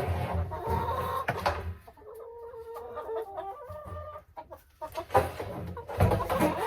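Domestic hens clucking in short, varying calls, with a few knocks from work nearby.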